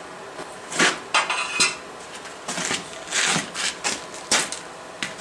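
Hammer blows and metal clanks on steel at a blacksmith's anvil, about nine irregular strikes, one ringing briefly about a second in.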